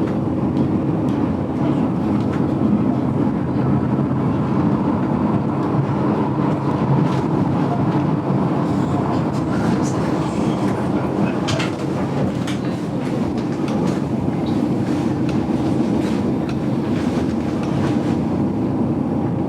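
GoldenPass Belle Époque train heard from inside the carriage: a steady rumble of the wheels running on the rails, with scattered sharp clicks and rattles around the middle.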